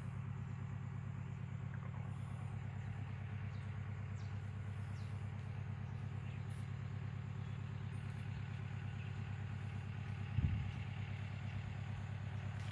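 An engine running steadily with a low, even hum, and a single thump about ten and a half seconds in.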